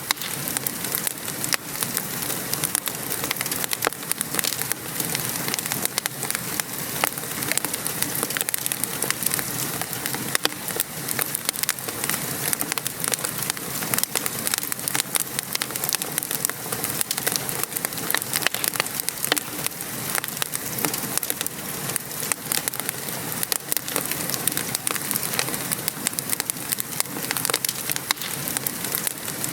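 Fireplace fire crackling with frequent small sharp pops over a steady hiss of gentle rain.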